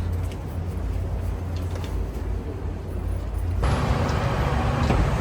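Low, steady vehicle rumble. About three and a half seconds in it changes abruptly, likely at an edit, to louder, hissier traffic noise.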